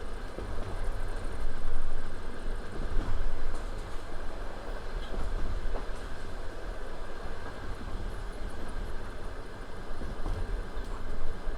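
Passenger train running between stations, heard from aboard: a steady rumble of the carriage with wheels clattering on the rails, swelling briefly a couple of times.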